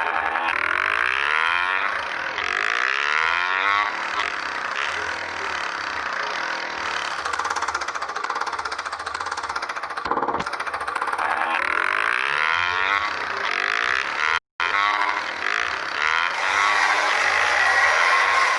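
Motorcycle on the move: steady engine and road noise picked up by the rider's camera, with a brief dropout about fourteen and a half seconds in.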